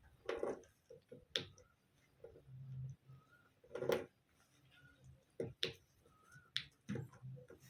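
Indian ringneck parrot making scattered sharp clicks and a few short, soft squeaky chirps, at a low level.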